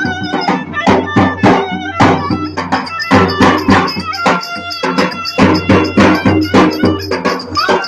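Folk dance music with a fast, steady drum beat over a low held drone and a melody.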